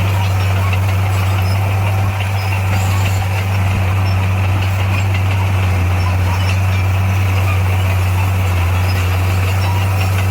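A bulldozer's diesel engine running steadily, a constant low drone that barely changes in pitch or loudness.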